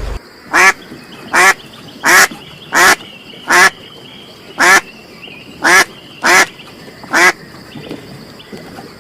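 A duck quacking: nine short, loud quacks in a steady series, about one every three-quarters of a second, stopping well before the end.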